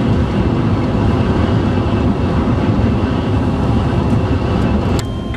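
A vehicle driving at speed, heard from inside: steady, loud road and wind noise with a low rumble. It drops abruptly about five seconds in.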